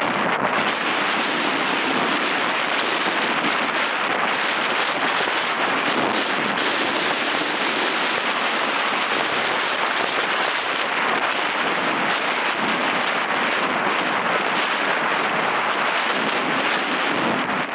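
Airbus A320 jet engines, a loud, steady rushing noise without distinct tones that holds level throughout.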